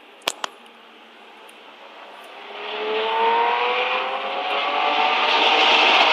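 Two sharp clicks, then a racing car's engine approaching under acceleration, its pitch climbing and its sound growing steadily louder over the last few seconds.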